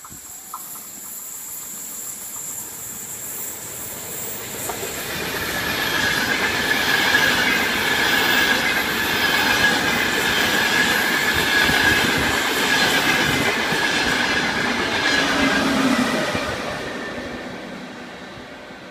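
AIACE high-speed diagnostic train (ETR 500 Y1) passing through a station on a curve. It swells as it approaches, runs loud past the platform with a steady high wheel squeal and rolling wheel noise, then fades over the last few seconds.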